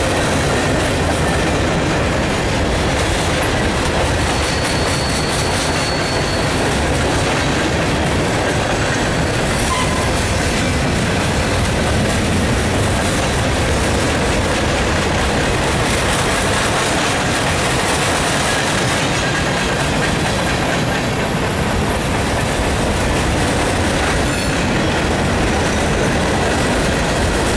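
Freight cars of a mixed freight train, covered hoppers and a centerbeam flatcar, rolling past: a steady loud rumble and clatter of steel wheels on rail. A brief faint high wheel squeal comes about four to six seconds in.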